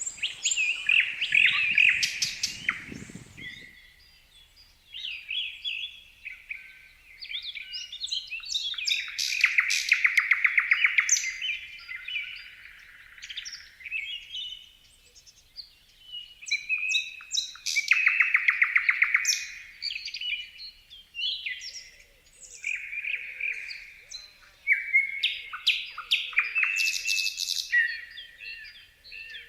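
Songbirds singing and chirping in repeated phrases with short pauses between them, including a very fast trill about a third of the way in and again past the middle. A low rumble runs under the birds for the first few seconds and stops abruptly.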